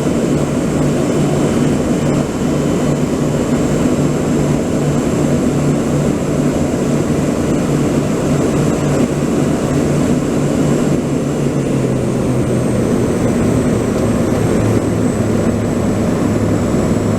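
An engine running steadily and loudly, with a low hum whose pitch drops slightly about twelve seconds in.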